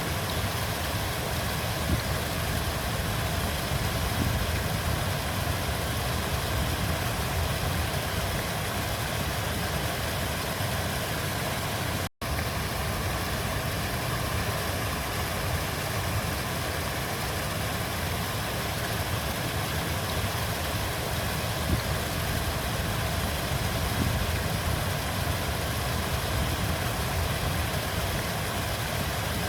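River water flowing, a steady rushing sound with a deep rumble underneath. It breaks off for a split second about twelve seconds in.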